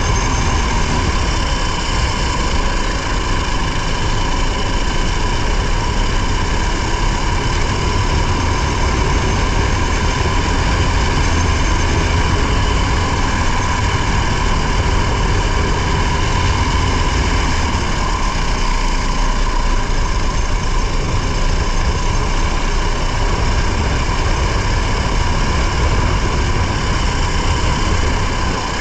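Competition car's engine running steadily while under way, heard from an onboard camera, with a heavy low rumble from the car and ground beneath.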